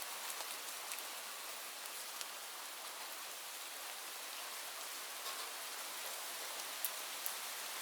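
Steady rain falling, a continuous hiss with scattered sharp drop ticks, a few of them louder, near the start and about seven seconds in.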